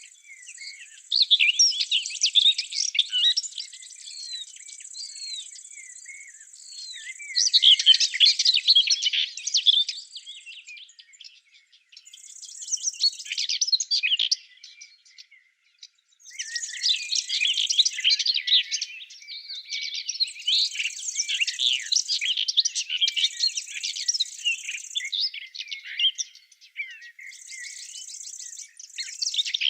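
Several songbirds singing at once in dense, overlapping chirps and whistles, with a thin, steady high trill that starts and stops every few seconds. The singing drops out briefly twice around the middle.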